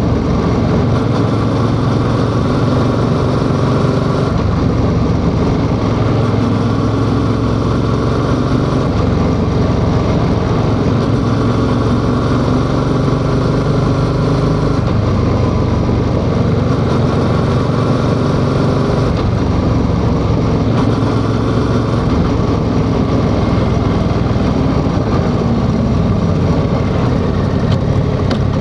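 Yamaha XSR700's 689 cc parallel-twin engine running under way, its note shifting in pitch a few times as the revs change, with wind and road noise.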